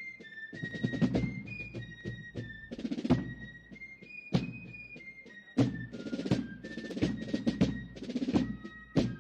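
Ceremonial military music: a high piping melody, most likely fifes, played over snare and bass drums with rolls and regular strikes.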